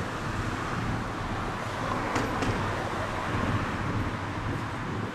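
Steady rumble of passing vehicle traffic, with a couple of short clicks about two seconds in.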